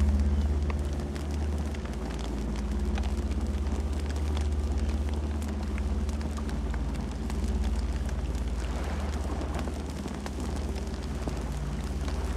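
Campfire burning, with scattered small crackles and pops over a steady low rumble.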